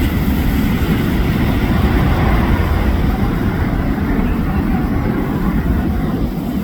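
Steady, loud jet noise from an F/A-18F Super Hornet's twin turbofan engines during its flying display, mostly deep rumble with a hiss above it.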